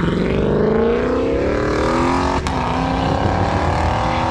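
A car engine accelerating hard, its pitch climbing; about halfway through it shifts up and the pitch drops, then it climbs again.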